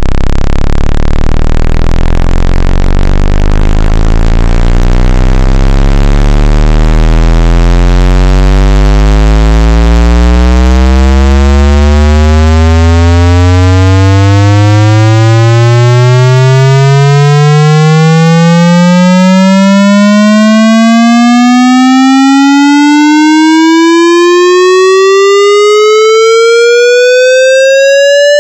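Loud synthesized buzzing tone that glides steadily upward in pitch over nearly half a minute, from a deep low drone to a high whine, without pausing.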